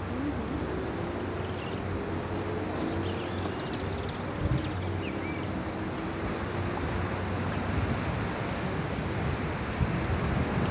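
Insects chirring in one steady high-pitched drone over a low rumble of wind on the microphone.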